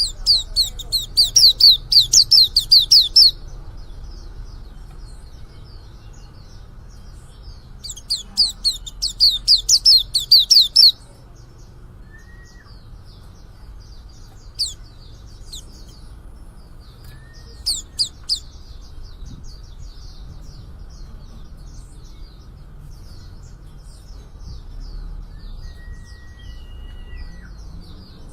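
Young male white-eye (pleci) just beginning to sing: two runs of rapid, high-pitched twittering notes, each about three seconds long, the first at the start and the second about eight seconds in, followed by a few short single calls. Quieter bird chirping goes on throughout, with a few brief lower whistles.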